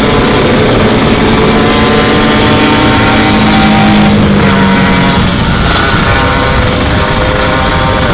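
Kawasaki Ninja 150 two-stroke motorcycle engine running under way at a fairly steady speed, its pitch drifting slightly, with wind rushing over the microphone.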